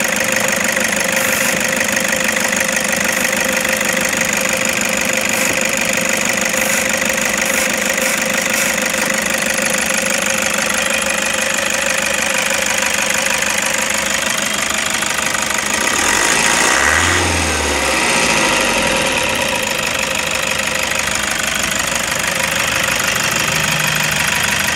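Toyota Hiace 2KD 2.5-litre turbo-diesel engine idling with a steady metallic rattle, which the owner puts down to the clutch release fork vibrating against metal while the clutch is engaged. About two thirds of the way through the sound swells briefly with a low hum.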